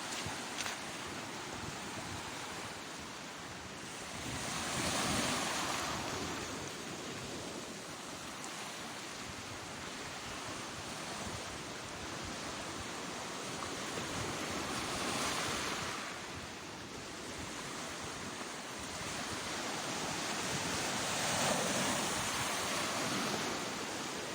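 Sea waves breaking and washing on the shore, a steady rush of surf that swells three times as waves come in, with some wind on the microphone.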